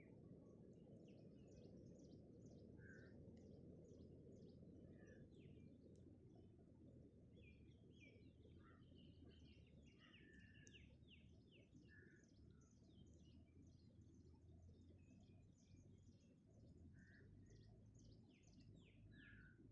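Faint outdoor birdsong: many short, quick chirps from several birds, with an occasional lower single note, over a low steady background rumble.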